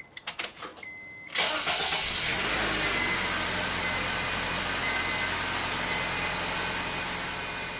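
A 2006 Honda Civic's 1.8-litre four-cylinder engine, cranked by its newly installed starter, catching almost at once about a second and a half in and settling into a steady idle: the new starter engages and starts the car. Before it, keys clicking at the ignition and a short beep.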